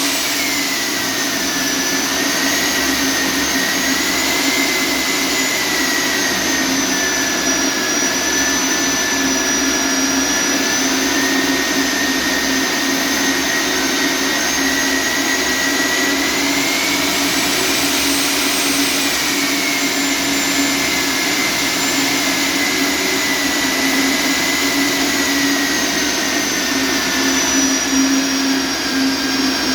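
Electric core drill motor running steadily, with a high whine that drifts slightly up and down in pitch over a steady lower hum.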